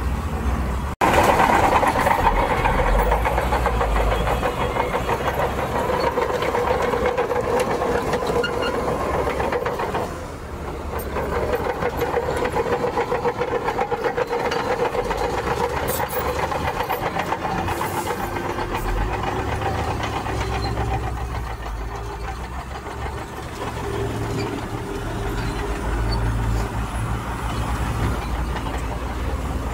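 Heavy earthmoving machinery at work: a large diesel engine running steadily under load with a deep rumble, easing briefly about ten seconds in before picking up again.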